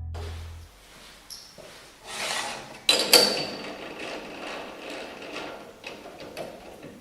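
Workshop handling noises: metal parts and tools being knocked and slid about, with a sliding rub about two seconds in and a sharp metallic knock about three seconds in that rings briefly.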